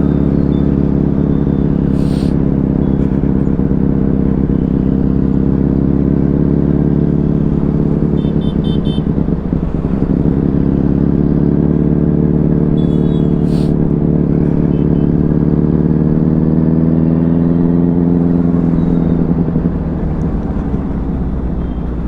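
Benelli 600i inline-four motorcycle engine running at fairly steady revs, the pitch easing up a little mid-way and dropping near the end. Two short sharp clicks come through, about two seconds in and again past the middle.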